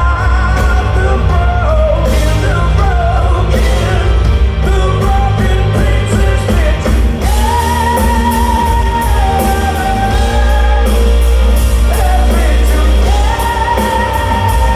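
Live rock band playing loudly in a large hall, with heavy drums and bass under a high melody line that holds long notes twice.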